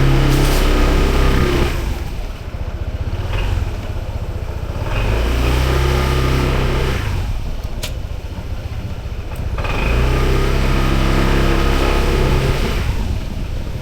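Motorbike engine running under throttle, heard from the rider's seat. Three times it drops away for a couple of seconds as the throttle is eased off, then picks up again.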